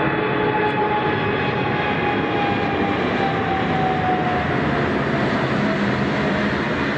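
British Airways Airbus A380's four Rolls-Royce Trent 900 jet engines at departure thrust. A loud, steady rush of engine noise with a whining tone that slowly falls in pitch.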